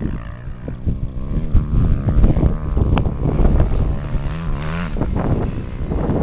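250-class racing engines running hard, one engine's pitch rising as it revs between about three and five seconds in. A single sharp click about three seconds in.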